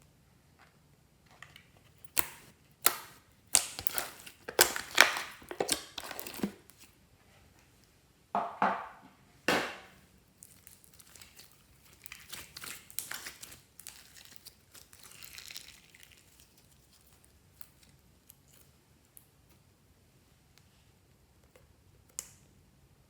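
Close-up crinkling and crackling as something is handled and crushed: a run of sharp crackles, a second short burst, then softer rustling.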